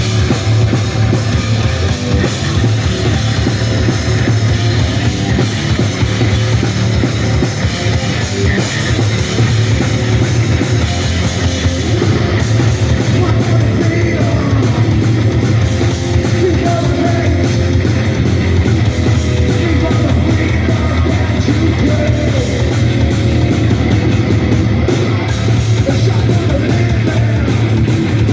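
Rock band playing a loud, distorted punk-rock song live, with electric guitar and bass filling the sound throughout.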